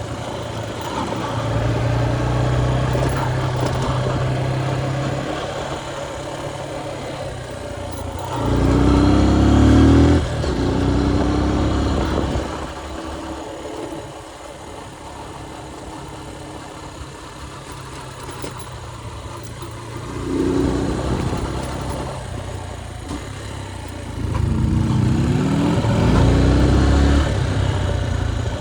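Motorcycle engine running while ridden. It revs up in quick rising steps, as when accelerating through the gears, about eight seconds in and again near the end, with a quieter stretch of low, steady running in between.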